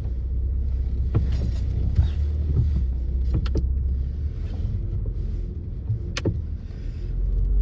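A car moving slowly, heard from inside the cabin: a steady low rumble with scattered clicks and knocks, the sharpest about six seconds in.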